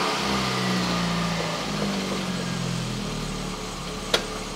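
VW Golf 1's carburetted petrol engine idling with the manual choke pulled, just after a cold start. It grows a little quieter as it runs, with a single sharp click about four seconds in.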